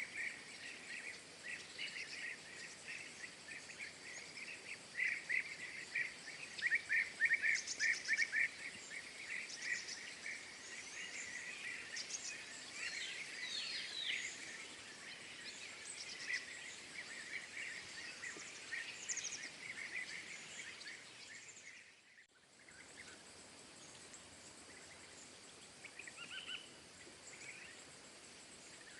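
Small songbirds chirping and calling, with rapid chattering series of short notes, loudest in a burst several seconds in. The sound breaks off abruptly about 22 seconds in, then a few quieter calls follow.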